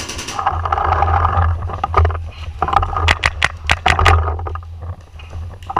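Paintball marker firing a rapid string of shots, about seven sharp pops a second, for around a second starting about three seconds in, over a steady low rumble and rustle.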